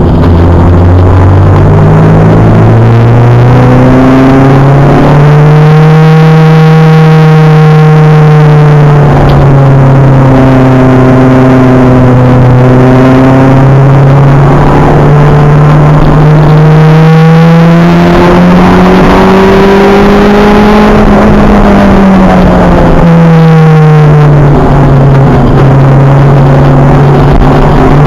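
Acura Integra race car's engine heard on board at full racing load, loud throughout. Its pitch climbs over the first few seconds, holds steady for a long stretch, rises again about two-thirds of the way through, then falls away sharply and settles back.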